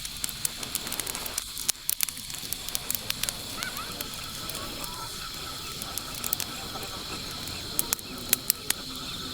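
Irregular sharp crackles and clicks over a steady hiss, with a steady high buzz in the background.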